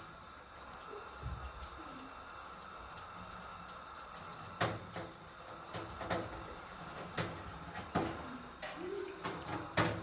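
Water running steadily, with sharp knocks coming roughly once a second from about halfway through.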